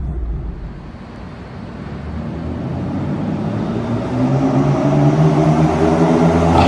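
BMW M4 F82's twin-turbo inline-six engine and exhaust running. The note dips briefly about a second in, then grows steadily louder.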